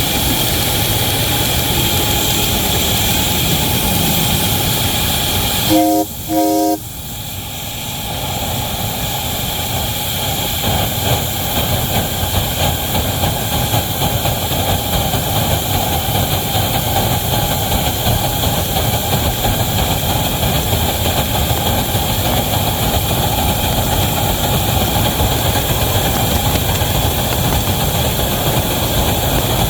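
Locomotive whistle sounding two short blasts about six seconds in, over the steady running noise of the locomotive and its train.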